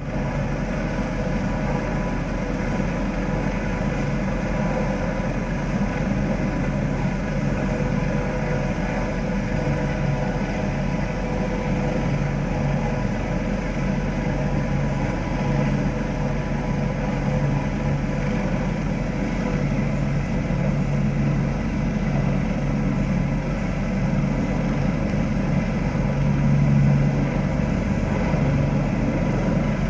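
A heavy engine running steadily, its low hum swelling and fading, loudest a little before the end.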